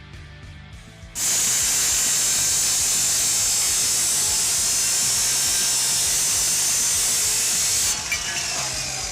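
Panda PA352P 2300 W abrasive metal cut-off saw grinding through metal: a loud, hissing grind starts suddenly about a second in and holds steady for almost seven seconds, then drops off as the disc winds down with a falling whine near the end. Guitar background music plays underneath.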